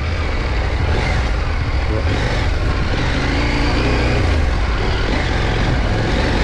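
KTM 890 Adventure R's parallel-twin engine running as the motorcycle is ridden off-road along a rutted dirt trail, with a steady low rumble underneath.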